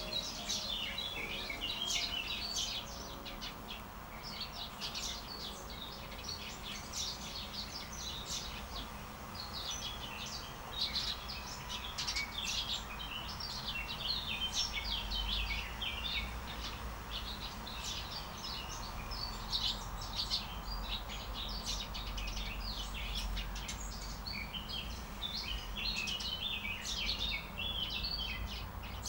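Several small birds chirping and singing at once, a busy, continuous chorus of short high-pitched calls over a low steady background rumble.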